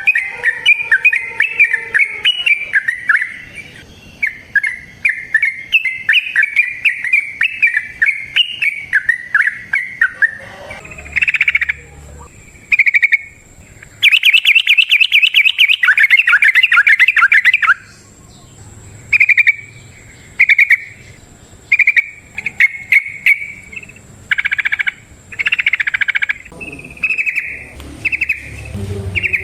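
Yellow-vented bulbul (trucukan) singing its long, rapid 'ropel' song: a fast run of bubbling, chattering notes, then a dense, loud trill about halfway through, breaking into short repeated phrases near the end.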